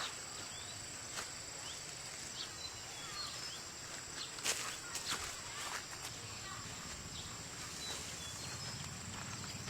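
Outdoor countryside ambience: a steady high insect drone, with short bird chirps and a few sharp clicks or knocks, the loudest about four and a half seconds in.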